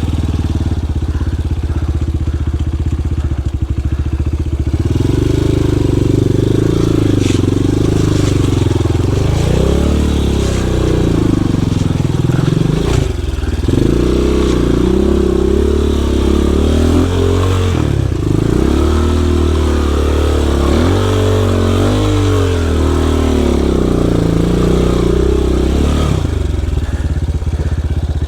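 Dirt bike engine revving up and down again and again in uneven surges, running steadier and lower before the revving starts and again near the end.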